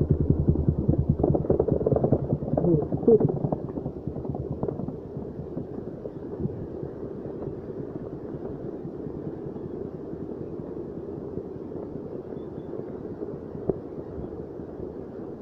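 Trail motorcycle engine running, loud for the first few seconds and then fading. After that a steady low rushing noise remains.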